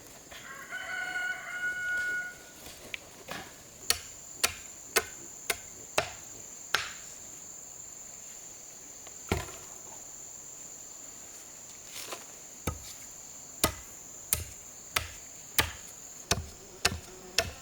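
A rooster crows once near the start. Then come repeated sharp blows of a hand tool, chopping or striking, roughly one or two a second with a pause in the middle. A steady high insect drone runs underneath.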